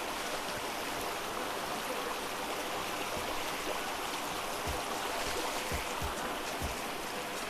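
Fast-flowing mountain river rushing steadily over rocks, with a few short low thumps in the second half.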